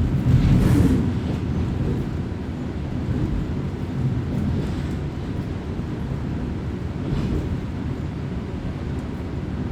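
Kominato Railway diesel railcar heard from inside the cabin while running: a steady low rumble of engine and wheels on rail, with a brief louder rush of noise about half a second in.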